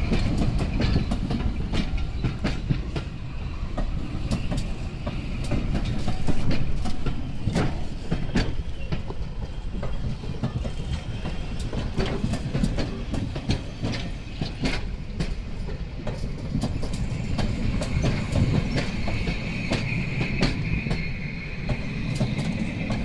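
Train of passenger coaches rolling past, a steady rumble broken by many sharp clicks of the wheels over the rail joints. In the last few seconds a high wheel squeal joins in.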